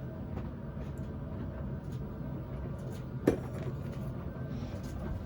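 A single sharp knock about three seconds in, amid a few light clicks, over a steady low hum.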